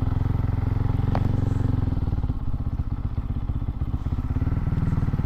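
Motorcycle engine running under way, a steady low pulsing note that eases briefly around the middle, with one sharp tick about a second in.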